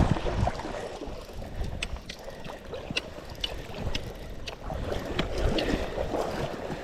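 Rushing river water with wind buffeting the microphone, and scattered short clicks through it.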